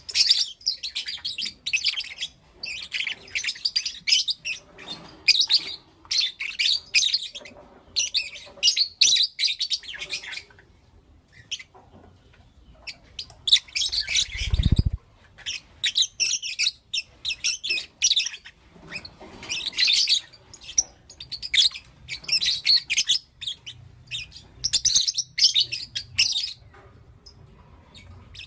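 Lovebirds chirping: bursts of rapid, high-pitched chattering calls, with a pause of a few seconds just before the middle. A short low thump comes about halfway through.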